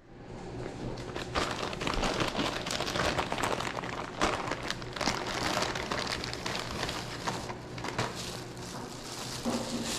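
Packaging crinkling and rustling as it is handled by hand during unboxing, with many irregular sharp crackles.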